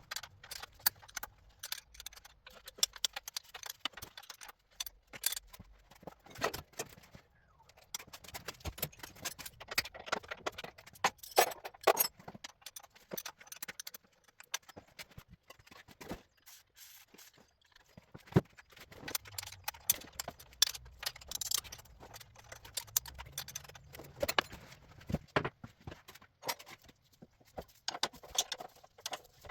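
Metal hand tools and parts clinking, clicking and scraping irregularly as the exhausts are unbolted from a Suzuki GT750 motorcycle.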